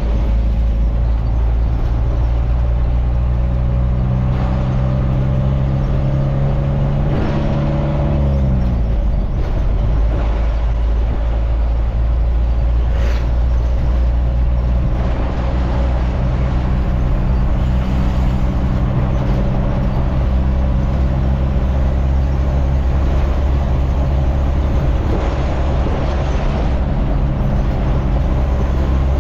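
Truck engine running steadily while driving. About eight seconds in, the engine note drops away, as when easing off or changing gear, and it settles back into a steady drone a few seconds later.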